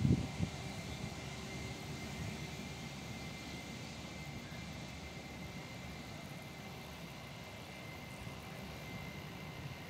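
Jet airliner engine noise, an Airbus A320's, heard as a steady distant rumble and faint whine that slowly fades. A few low bumps come right at the start.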